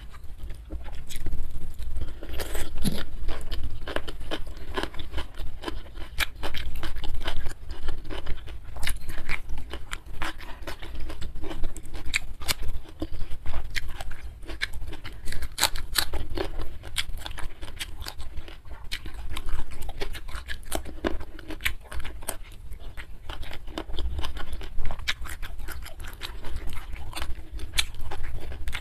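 Close-miked chewing and crunching of food eaten by hand: many small crisp clicks and wet mouth sounds in an irregular run, over a low steady hum.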